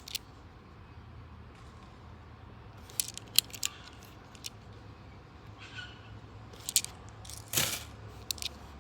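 Australian $2 coins clicking and clinking as they are handled and sorted, in scattered sharp clicks with a short rattle near the end, over a steady low hum.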